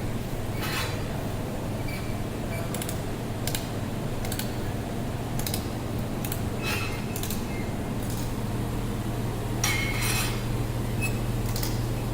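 Laser welding machine running with a steady low hum, with irregular sharp metallic clicks every second or so.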